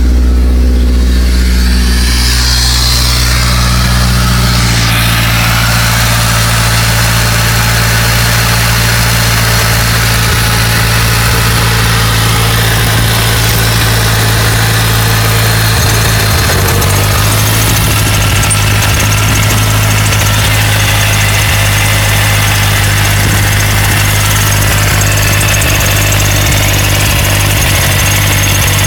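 Car engine running at idle, its note shifting about five seconds in and then holding steady. It is making a noise that the owner suspects comes either from a bad pulley or from the variable valve timing.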